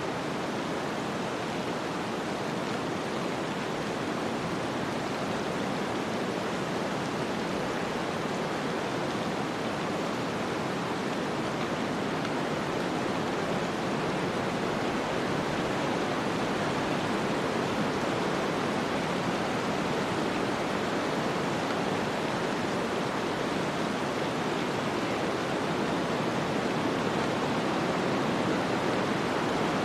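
Snowstorm wind: a steady, even rushing noise with no distinct events, growing slightly louder toward the end.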